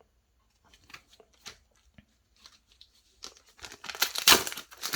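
A Yu-Gi-Oh Rush Duel booster pack wrapper being handled and torn open: faint rustles and clicks at first, then a louder stretch of tearing and crinkling in the last two seconds.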